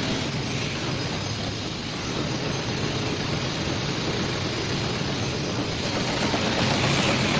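Automatic pillow packing machine running: a steady mechanical noise with a low hum, getting slightly louder near the end.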